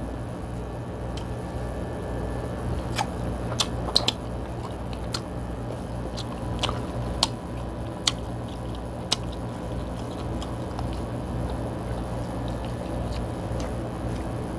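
Close-up eating sounds of a person chewing king crab meat: wet chewing and mouth smacks with scattered short sharp clicks, over a steady low hum.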